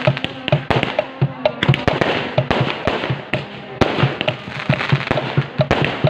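Fireworks going off in rapid succession: a dense string of sharp bangs, several a second, over continuous crackling.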